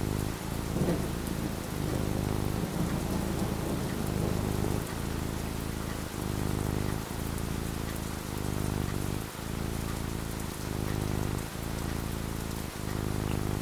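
Steady rain falling, with a low rumble of thunder swelling in the first few seconds.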